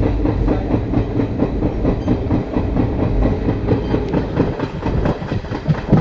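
A moving train's wheels running over the rails, with a continuous low rumble and a rapid clatter from the track.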